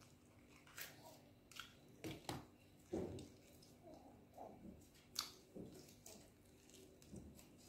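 Faint chewing and biting: a person eating food held in the fingers, with soft wet mouth sounds and a handful of sharper clicks.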